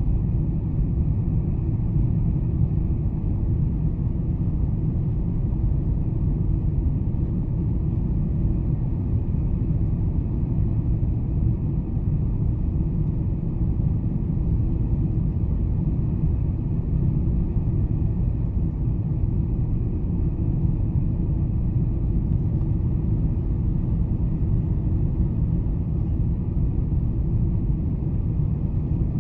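Steady, unchanging low rumble of engine and airflow noise inside the cabin of a Boeing 747-400 airliner.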